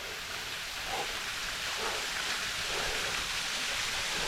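Steady, unbroken rush of a waterfall pouring into its pool, growing slowly louder.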